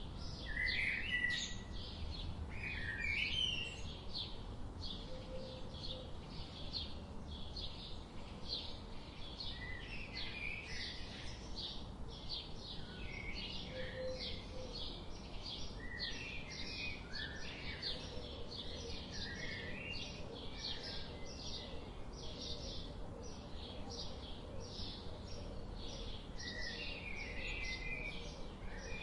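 Birds chirping in a continuous chorus: quick high chirps two or three a second, with lower warbling phrases that are loudest in the first few seconds and come back near the end, over a low steady rumble.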